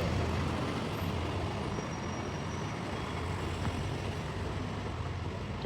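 Road traffic: a steady low engine rumble from a passing large vehicle, easing off slightly after the start.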